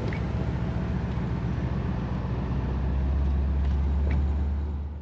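Car driving along a road: a steady low rumble of engine and road noise that grows a little louder about halfway through.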